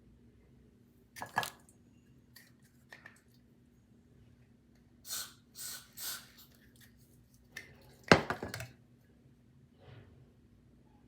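Scattered clicks, taps and short rustles of small things being handled, with three quick rustles about five to six seconds in and the loudest sharp clack about eight seconds in.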